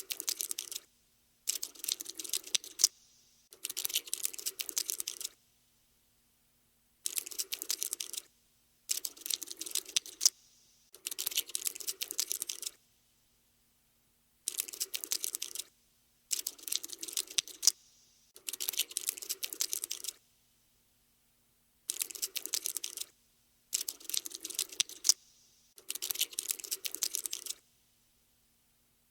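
Cockroach scuttling sound effect: bursts of rapid, dry clicking, each lasting a second or two and stopping short, with brief pauses between them, about a dozen in all.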